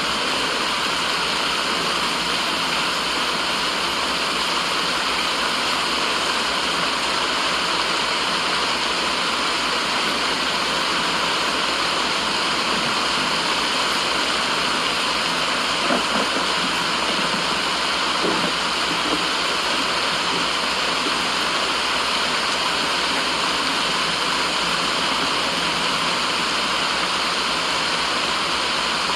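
Steady, unbroken rushing noise of a white-noise track, with the sound of water pouring. Two faint ticks come about halfway through.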